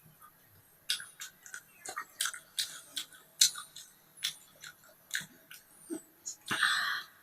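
Close-up eating sounds: a person chewing, with an irregular run of short wet mouth clicks, two or three a second, and a longer rushing mouth noise near the end.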